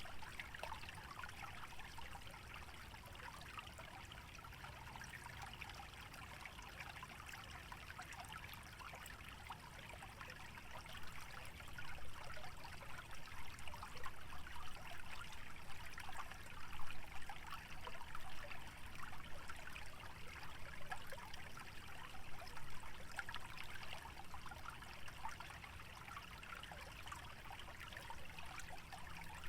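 Small stream trickling through a wetland: a continuous babble of small splashes and gurgles, a little livelier from about a third of the way in.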